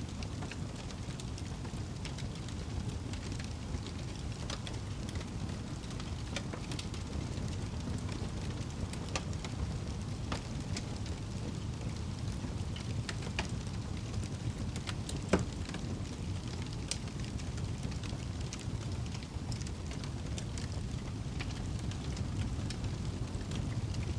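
Wood fire burning in a fireplace: a steady low rumble of flames with scattered crackles and pops, one louder pop about fifteen seconds in.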